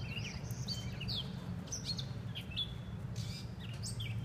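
Songbirds chirping: many short, quick calls and sweeping notes, over a steady low rumble.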